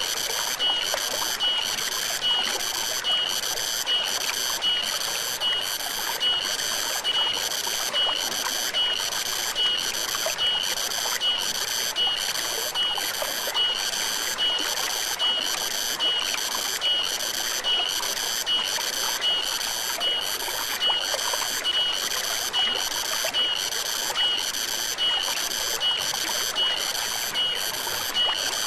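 Stream water flowing steadily. Over it, a high-pitched chirping call repeats in an even rhythm, about one and a half chirps a second.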